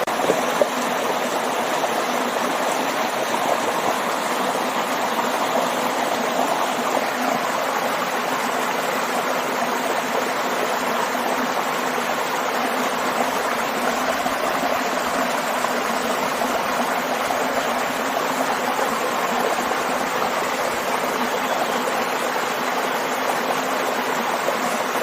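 Waterfall and stream: a steady, unbroken rush of flowing water.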